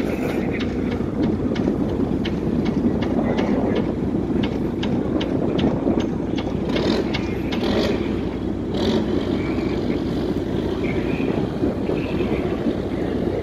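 A ship's engine running steadily with a low rumble, with a regular light ticking about three times a second through the first half.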